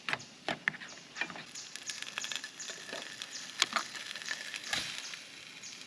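Pre-cooked pork Panang curry going into a pan to warm. It makes a light sizzle with scattered clicks and rustles from the packet and cookware, busiest in the middle few seconds.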